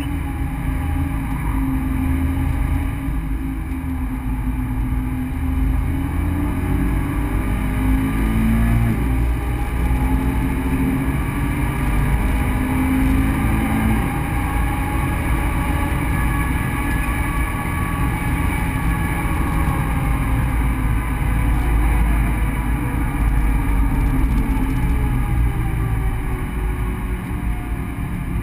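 Subaru BRZ's 2.0-litre flat-four engine running under load, heard from inside the cabin. Its pitch rises and falls slowly with throttle and road speed through the automatic gearbox, over a steady low road rumble.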